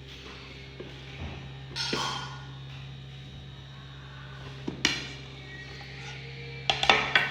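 Kitchen utensils knocking and clinking on a hard surface, a few separate ringing clinks and then a quick cluster near the end, over a steady low hum.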